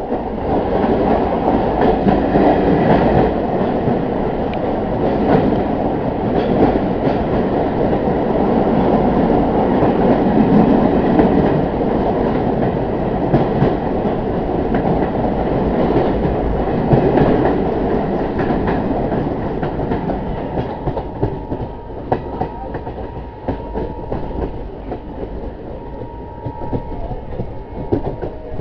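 Passenger train running, heard from aboard: a continuous rumble of the carriage with the clickety-clack of wheels over rail joints. It grows somewhat quieter in the last third.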